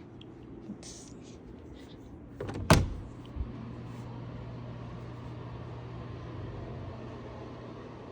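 A loud sharp bang, like something knocking or shutting, about a third of the way in, followed by a smaller thump; a steady low hum carries on after it.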